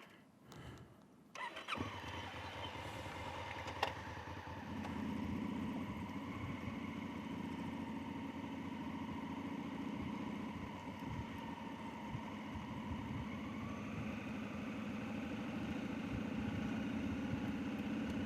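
Motorcycle engine starting about a second and a half in, then running steadily, a little louder from about four seconds in.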